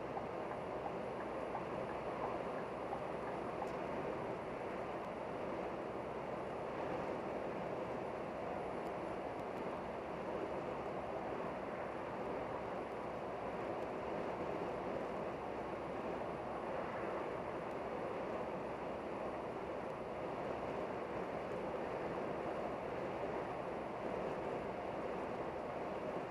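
Steady running noise of a vehicle in motion, an even rumble and rush with no change in pitch or level.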